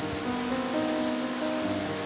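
Piano background music playing a slow melody, over a steady rush of falling water.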